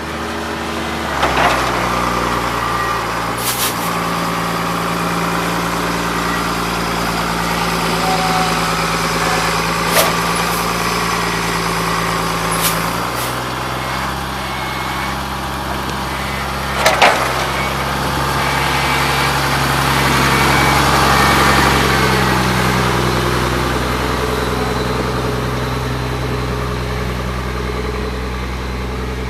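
International truck engine running steadily, its engine speed stepping up or down a few times, with a few short sharp clicks and knocks over it.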